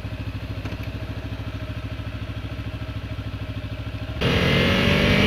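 Kawasaki Ninja 300's parallel-twin engine idling with an even, pulsing beat. About four seconds in, the throttle opens to pull away, and the engine note and rushing noise jump up sharply.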